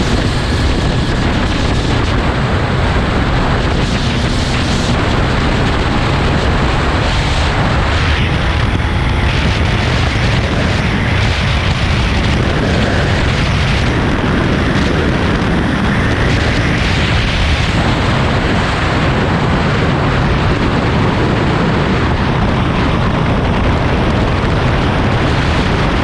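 Heavy wind noise on the microphone of a moving motorcycle: a loud, steady, rumbling rush.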